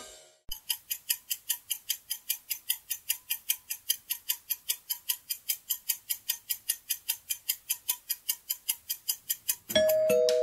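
Clock-tick countdown timer sound effect, about four even ticks a second, marking the time to guess. It stops near the end, where a bright ringing chime sounds for the answer reveal.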